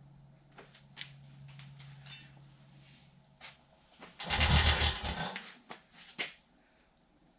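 Clicks and knocks from a Stickney hit-and-miss engine being worked by hand for a bump start, with one loud rushing thud lasting about a second, about four seconds in. A faint low hum runs underneath until then.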